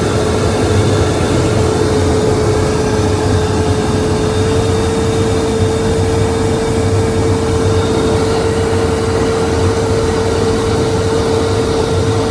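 Aircraft engine running steadily, a constant whine over an even rushing noise, the whine stepping up slightly in pitch about four and a half seconds in; it sounds like a jet cockpit in formation flight.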